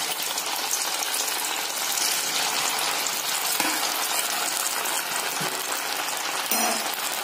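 Potato cutlet deep-frying in hot oil in a steel pan: steady, dense sizzling and crackling. A short knock comes about six and a half seconds in.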